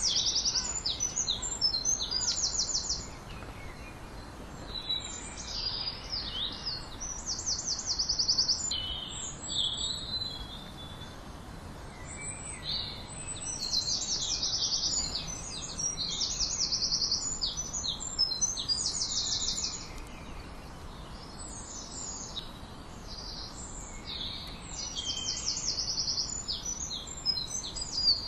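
Songbirds singing: high, rapid trills recur every few seconds among overlapping chirps and calls, over a faint steady background hiss.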